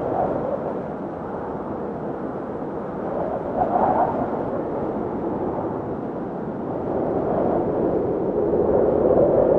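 Blizzard wind howling in gusts: a continuous rush that swells about four seconds in and again near the end, where its pitch sinks a little.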